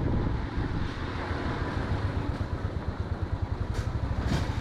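A road vehicle's engine running as it travels, a steady low rumble with a rapid pulsing.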